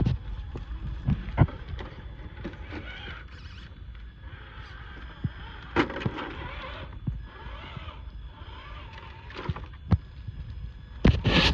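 RC rock crawler trucks driving over rough trail ground: irregular clacks and knocks of tyres and chassis on rocks over a faint thin whine of the electric drive, with a louder burst of knocks near the end.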